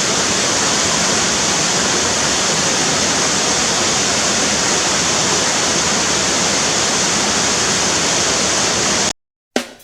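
Steady, even rushing of water that cuts off abruptly about nine seconds in, followed by a single sharp click near the end.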